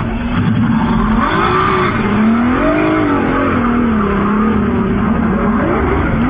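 Twin Mercury EFI 300 HP outboard engines running hard on a race boat, their note rising and falling every second or so as the revs swing, over a steady rush of wind and water.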